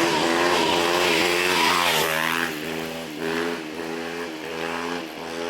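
Motorcycle engine pulling away under throttle, its pitch rising and dropping a few times as it accelerates, with wind rushing past.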